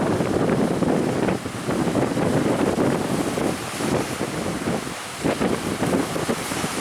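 Strong wind buffeting the microphone in uneven gusts over the rush of rough sea waves.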